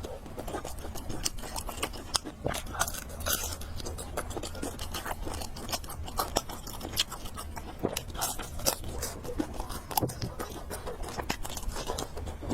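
Close-miked chewing of spicy fried noodles and pork, with many quick wet smacks and crunches throughout and a low steady hum underneath.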